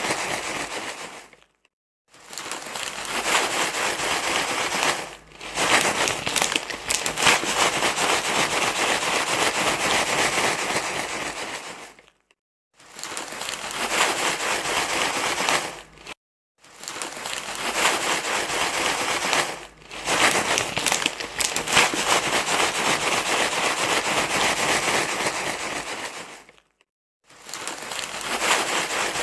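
Loud crinkly rustling of material being crumpled and handled, in long stretches broken by four short silences. This is the rustling sound used to stop a baby crying.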